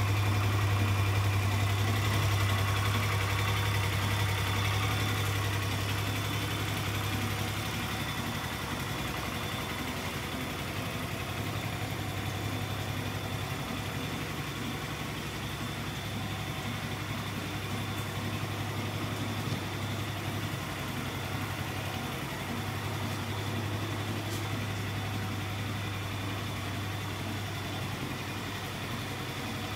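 Yamaha Majesty 125 FI scooter's fuel-injected single-cylinder four-stroke engine idling steadily at an even pitch, a little louder for the first several seconds before settling.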